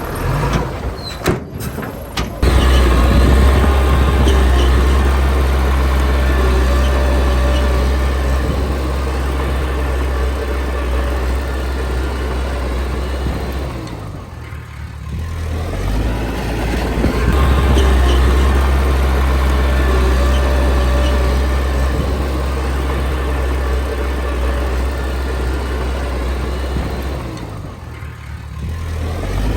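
Diesel engine of a Komatsu D20P bulldozer working, a loud steady low drone that eases off twice, about halfway through and near the end, and then builds again. A few sharp clicks come near the start.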